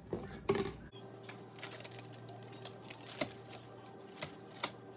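Pizza cutter slicing baked cheese bread on a pan: a run of light clicks and scrapes with a few sharper knocks.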